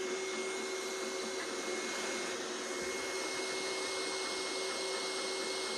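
Two Trees Sapphire Plus Core XY 3D printer running a print: steady fan hiss with a steady whine over it from the machine. The owner can't tell where a sound in the printer is coming from, though the prints show no skipping.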